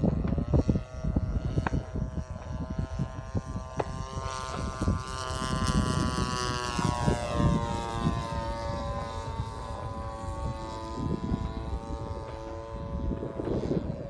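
Sig Rascal 110 radio-controlled model airplane flying overhead, its engine and propeller giving a steady droning note that shifts in pitch, dropping around the middle as it manoeuvres. Wind buffets the microphone throughout.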